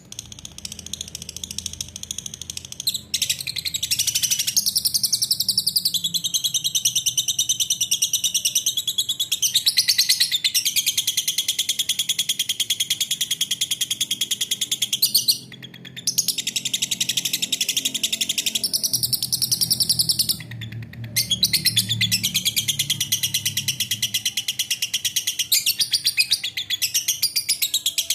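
A lovebird singing its long, fast chattering trill, the 'ngekek' song, high-pitched and nearly unbroken, breaking off briefly about 15 seconds in and again about 20 seconds in.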